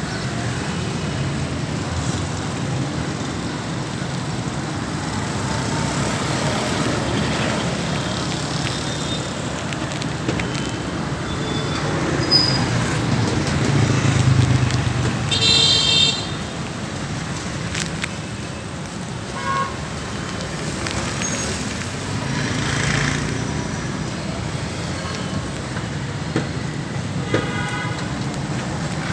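Vehicle engine running amid street traffic noise, with a car horn tooting briefly about halfway through and again more faintly near the end.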